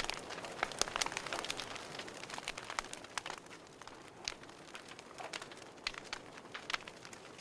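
Wood fire burning in a fireplace: a soft hiss with irregular sharp crackles and pops of burning wood, busier in the first few seconds.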